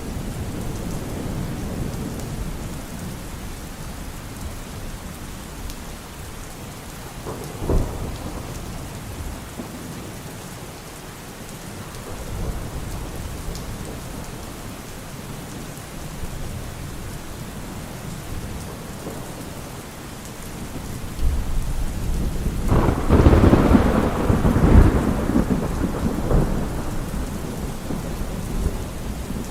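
Steady rain with thunder: a low rumble at first, a single short, sharp crack about a quarter of the way in, and a loud rolling thunderclap in the last third that then dies away under the rain.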